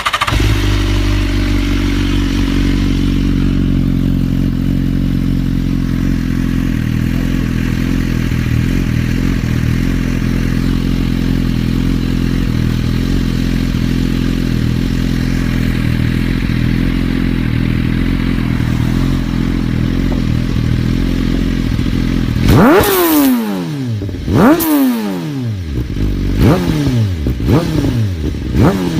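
BMW S1000RR's inline-four engine idling steadily, then revved in a string of quick throttle blips near the end, each a sharp rise and fall in pitch.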